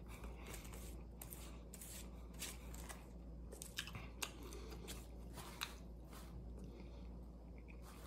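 A man chewing a bite of a maple-syrup-soaked chicken croissant sandwich: faint, irregular mouth clicks and smacks, a few of them sharper.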